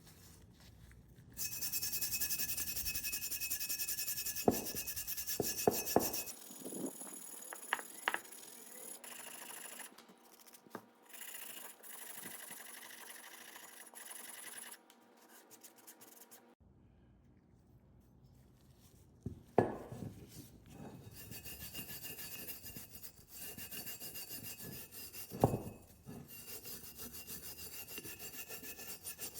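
Rubbing and scraping on rusty metal parts during rust removal, in several short stretches that cut abruptly from one to the next, with a few sharp clicks and knocks of metal.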